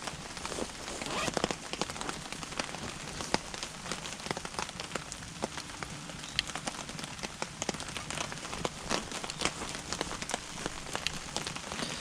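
Burning firewood crackling, with irregular sharp pops and snaps over a steady low hiss of flame.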